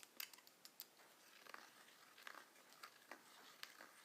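Near silence with faint, irregularly spaced clicks and scrapes, typical of a deburring tool working the cut end of a copper tube.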